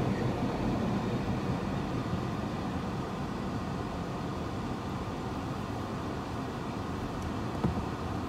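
Train of locomotives and passenger carriages rolling past a level crossing, heard from inside a car. The rumble is loudest at first and slowly fades as the last carriages go by.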